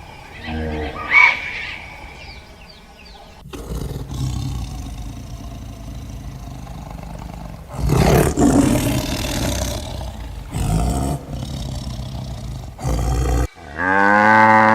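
Several short farm-animal clips cut together: a couple of high calls about a second in, then a long stretch of low, rough animal noise with louder swells, and near the end a cow mooing once, a long low call that rises and falls.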